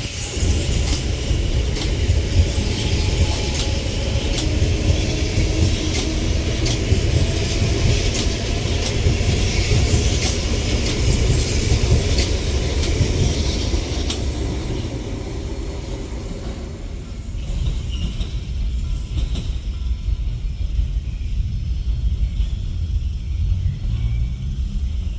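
CSR Mitsubishi electric multiple-unit train running on the track: a steady low rumble with hiss and scattered sharp clicks. About 16 seconds in, the higher sounds fade while the rumble continues.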